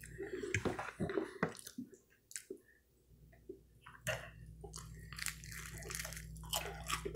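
Close-miked eating sounds: bites into crispy fried chicken and wet chewing, made of small crunches and clicks. There is a short lull in the middle, and the crunching picks up again about four seconds in.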